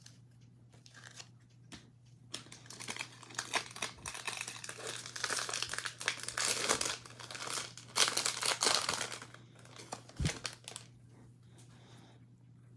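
Foil wrapper of a Topps baseball card pack crinkling as it is torn open and crumpled, for several seconds, after a few light ticks. A soft thump follows near the end, over a steady low electrical hum.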